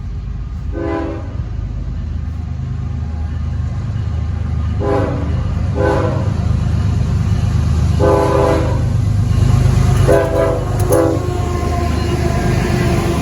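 Diesel freight locomotives rumbling past, growing louder, while the lead locomotive's air horn sounds a crossing sequence of blasts: one short, two short, a longer one about eight seconds in, then two short.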